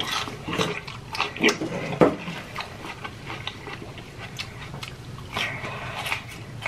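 Close-miked chewing of a crisp piece of raw red bell pepper: crunchy bites and wet mouth sounds, thickest in the first two seconds, with a few more crunches later on.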